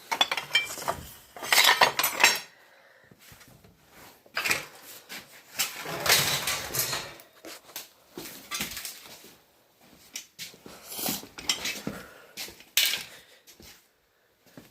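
Pieces of scrap metal clanking and clattering as they are picked up, shifted and set down, in several separate spells of clatter with short pauses between.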